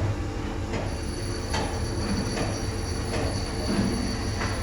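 Heavy-fabrication workshop noise: a steady low machine rumble with a thin high whine, broken by several sharp metallic knocks spaced roughly a second apart.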